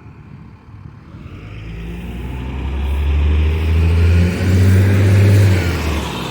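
Diesel train's underfloor engines working hard as it pulls away, building up and passing close. The engine note dips and shifts about four seconds in, then the sound fades.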